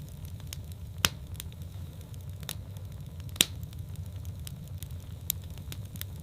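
Wood fire burning in a fireplace: a steady low rumble of flames with scattered sharp crackles and pops, the two loudest pops about a second in and about three and a half seconds in.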